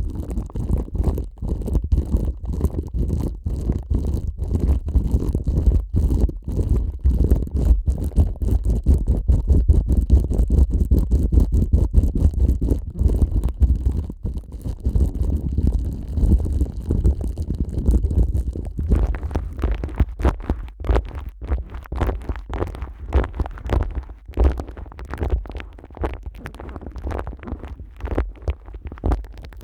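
Plastic cling film stretched over a dummy-head microphone's ears, rubbed and crinkled by rubber-gloved hands: a dense, close rustling with deep muffled rumbles from the film pressing on the mic. About two-thirds of the way in it turns brighter and more crackly.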